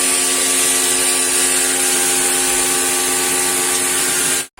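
Electric pressure washer running steadily, its motor hum under a strong hiss of spraying water, cut off abruptly near the end.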